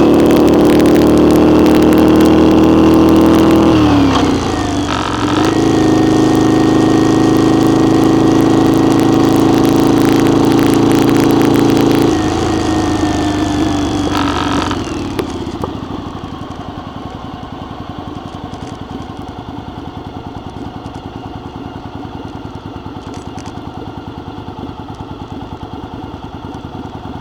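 Motorcycle engine running steadily at road speed. Its note dips and comes back about four seconds in, then falls away from about twelve seconds as the bike slows, and settles into a quieter, steady idle for the last ten seconds.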